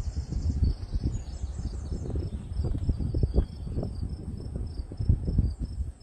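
Crickets chirping in a fine, steady high pulsing, under louder irregular low bumps and rumbling.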